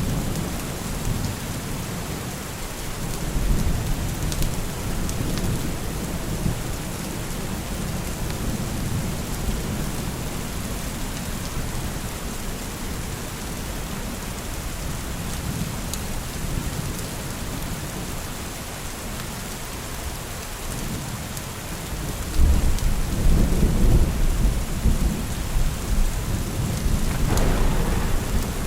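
Steady rain with rolling thunder. Low rumbles come and go early on, and a louder, deeper rumble of thunder builds from about three-quarters of the way through.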